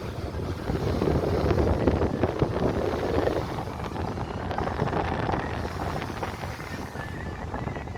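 Steady rush and rumble of the Aharbal Falls waterfall, with wind buffeting the microphone.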